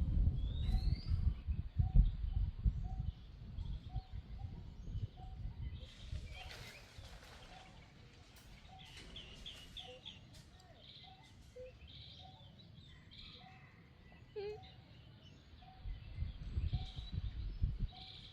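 Outdoor bird calls: a short note repeats about twice a second, with a quick run of higher chirps near the middle. A low rumble sits under the start and comes back near the end.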